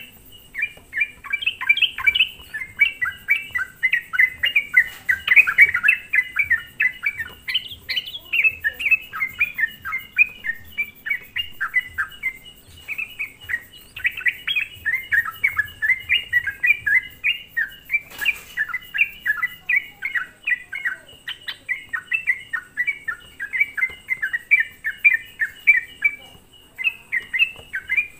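Yellow-vented bulbul (trucukan) singing energetically: a continuous stream of quick chirping notes with hardly a break, the kind of vigorous song used as a lure to provoke other bulbuls. A single brief click about eighteen seconds in.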